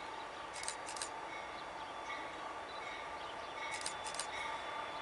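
Faint sound of an approaching train between horn blasts: a steady low hum with a short high tone repeating about every 0.7 s, and two brief clusters of sharp clicks.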